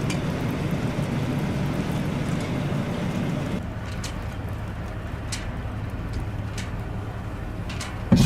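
Steady low rumble of a vehicle on the road, heard from inside. A few faint clicks in the second half, and a sudden thump at the very end.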